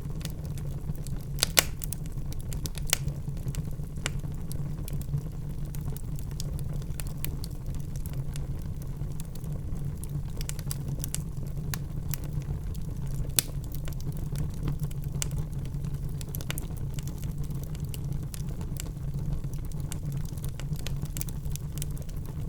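Wood burning in a fireplace: a steady low rumble of flames with scattered sharp crackles and pops. The loudest pops come about a second and a half in, around three seconds in, and about thirteen seconds in.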